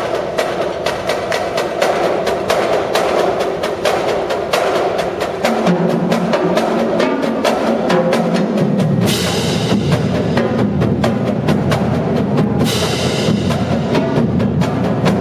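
Marching drumline playing a fast percussion cadence of rapid, dense drum strokes. Lower drums join about a third of the way in and fill out past the halfway point, and two loud crashes ring out in the middle.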